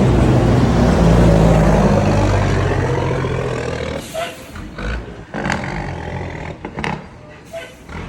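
A motor vehicle's engine running loud close by, then fading away about halfway through, followed by a few scattered knocks.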